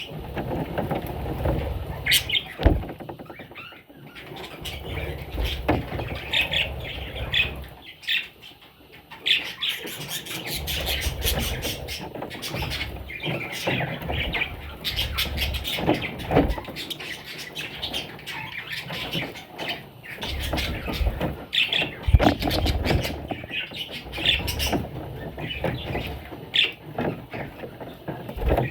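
Pet budgerigars chirping and chattering continuously, with short squawky calls. A low rumble comes and goes, and there are a few sharp clicks.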